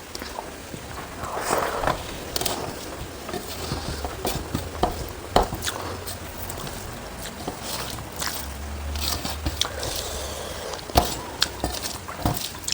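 A person eating rice and prawn curry: chewing, with scattered short clicks and scrapes from the plate and hand.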